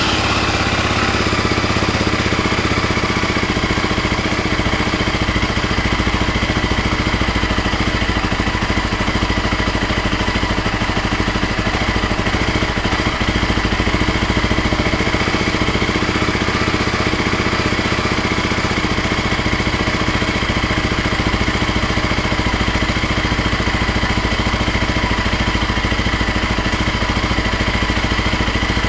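BMW G650 Xchallenge's single-cylinder engine running steadily just after a cold start, on the third try.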